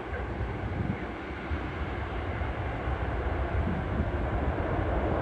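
Engine noise from the CASA C-212-200's twin turboprops during its landing: a steady rushing drone over a low rumble, growing louder near the end.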